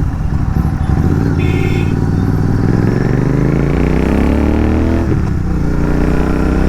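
Royal Enfield Continental GT 650's parallel-twin engine pulling through a gear, its pitch climbing for a couple of seconds, then dropping at a gear change about five seconds in and running steady. A short horn beep about a second and a half in.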